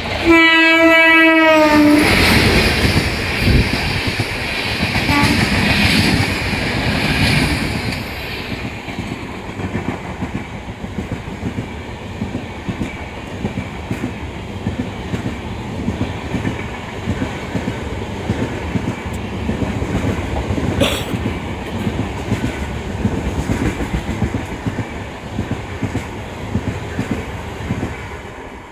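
Express train's locomotive horn sounding one blast of just under two seconds. The locomotive then passes close by, loudest over the next several seconds, and its coaches follow with a steady clickety-clack of wheels over rail joints.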